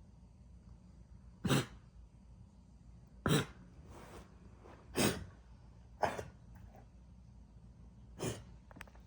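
Dog coughing: five short coughs, one to two seconds apart, from a dog with aspiration pneumonia.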